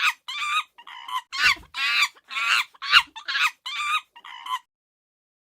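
A monkey howling: a rapid run of high-pitched, wavering calls, about two to three a second, that stops about four and a half seconds in.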